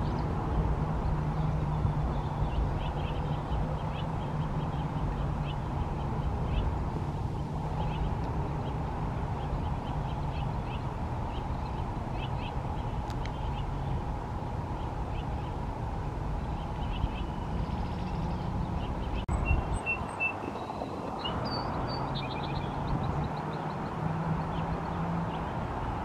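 Faint, short chirps and peeps of small birds scattered throughout, over a steady low rumble.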